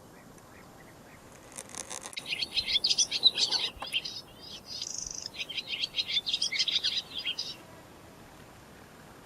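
Songbird singing in two bursts of rapid, high chirps and trills, the first about a second and a half in, the second starting near the middle and stopping well before the end.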